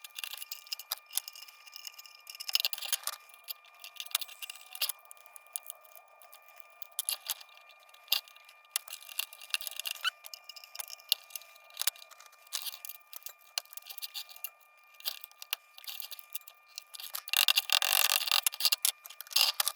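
Small metal tool clicking and scraping against the thin tin tabs of an old lantern as they are pried and bent wider, light irregular taps throughout, with a louder run of scraping near the end.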